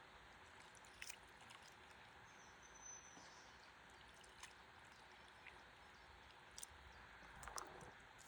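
Faint river water at a stand-up paddleboard: a steady soft hiss with scattered small drips and splashes, and a slightly louder swish about seven and a half seconds in.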